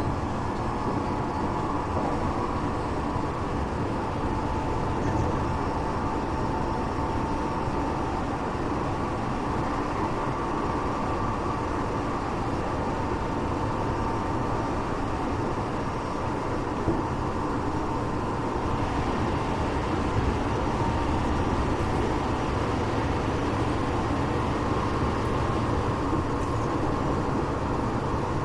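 Tokyo Metro 8000 series commuter train running between stations, heard inside a passenger car: a steady rumble of wheels on rail with faint steady tones near the middle of the range.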